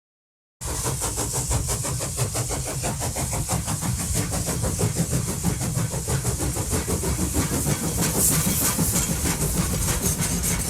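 St. Louis–San Francisco 1630 steam locomotive running, its exhaust beating in a fast, steady rhythm over a low rumble. The sound cuts in abruptly just under a second in, after a brief silence.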